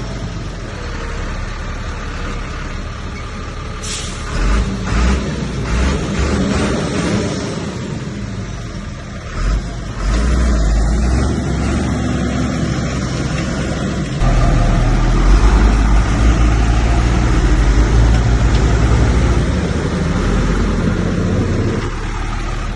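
Heavy diesel earthmoving machinery running under load. There is a short hiss about four seconds in, and the engine grows louder and deeper from about fourteen seconds in before easing near the end.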